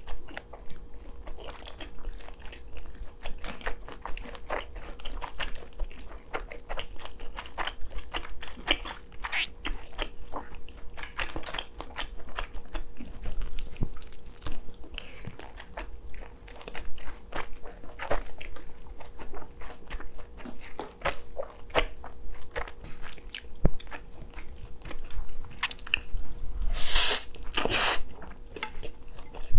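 Close-miked chewing and biting of food: many quick wet clicks and small crunches in an uneven stream. A louder, longer noisy mouth sound comes near the end.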